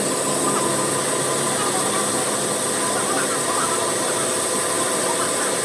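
Woodworking factory machinery running steadily: a continuous hiss with a hum of several steady tones.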